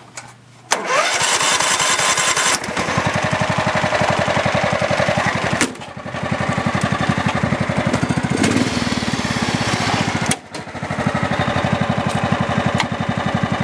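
Kubota racing tractor's engine running under way, with a fast, even firing beat. It comes in suddenly under a second in and drops away briefly twice, about six and ten seconds in.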